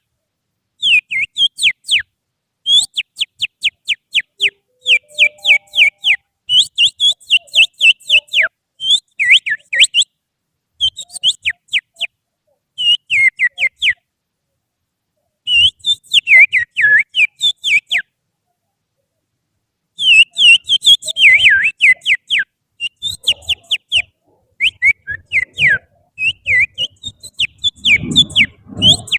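Finger whistling imitating an oriental magpie-robin (kacer) song: runs of quick, sharp downward-sliding whistled notes, several a second, in bursts separated by short pauses. A low rumbling noise comes in near the end.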